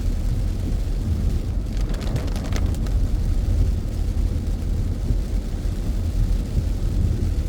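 Car driving on a back road, a steady low rumble of engine and tyres, with a few faint ticks or rattles about two seconds in.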